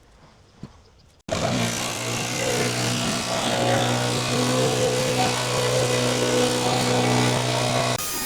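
A small engine runs steadily at a constant speed. It cuts in abruptly about a second in and cuts off abruptly near the end.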